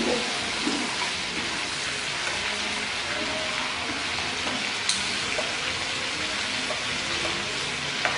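Pieces of duck deep-frying in hot oil in a wok: a steady sizzle, with one light click about five seconds in.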